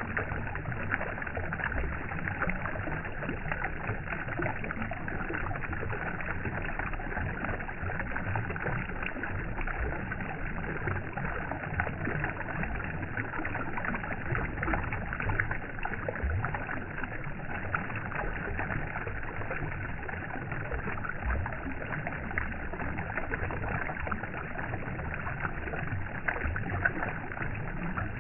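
Steady, unbroken sound of moving water with a low rumble beneath it.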